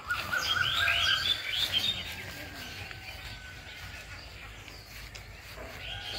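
A bird chirping: a quick run of about half a dozen short, high chirps over a thinner held note in the first two seconds, then only faint outdoor background.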